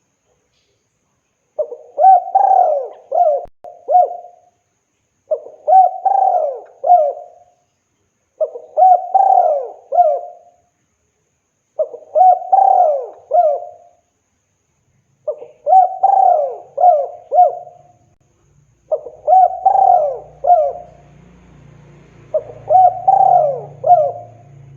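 Male spotted dove (tekukur) cooing over and over, calling to a female: seven phrases of three or four coos each, about one every three and a half seconds. A faint low hum comes in near the end.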